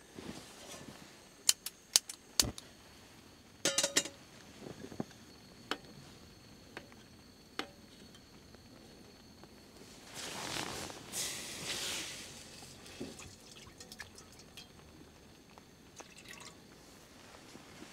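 Rain dripping: scattered sharp drips and taps, with a louder watery rush lasting about two seconds near the middle.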